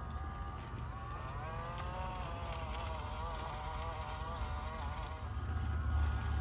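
Small RC crawler's 370 brushed motor and metal gear transmission giving a thin buzzing whine that wavers up and down in pitch with the throttle, over a low rumble. The whine fades out about five seconds in.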